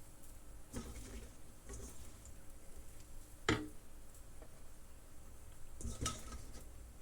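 Kitchen utensils and a frying pan being handled: a few light clatters, with one sharp clink about halfway through.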